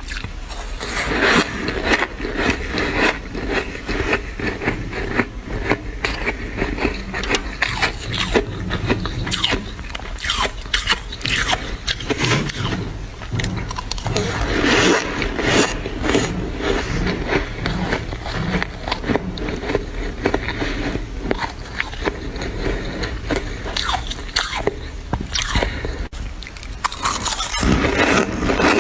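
Freezer frost being bitten and chewed close to the microphone: a dense, continuous run of squeaky crunches.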